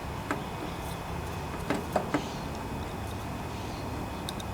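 A few light clicks and taps of small parts being handled, over a steady low hum.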